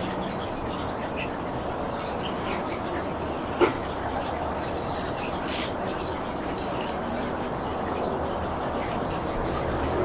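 A bird giving short, high chirps, six in all, spaced a second or two apart, over a steady rush of wind.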